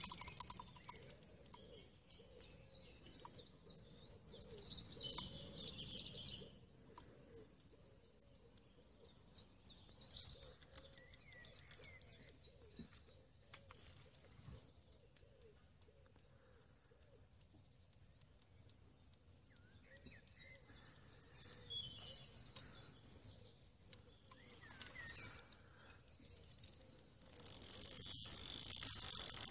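Small birds chirping and singing over quiet outdoor ambience, with a louder spell of rapid high-pitched ticking near the end.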